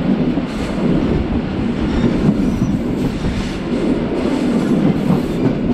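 Regional passenger train in motion, heard from inside the carriage: a steady rumble of wheels on the rails with a few faint clicks.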